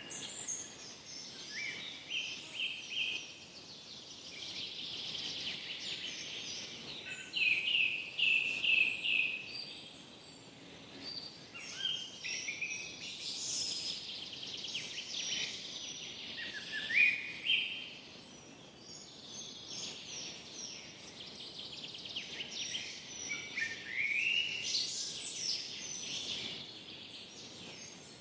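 Forest songbirds singing: short phrases of quick whistled notes and trills come every few seconds over a faint, steady background hiss.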